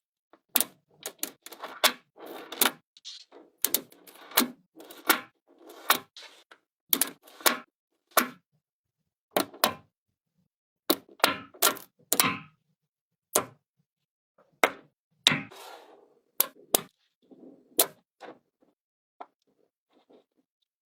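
Magnetic building pieces clicking and clacking together as they are handled and snapped into place: irregular sharp knocks, a few with a brief scraping rattle, and short silent gaps between them.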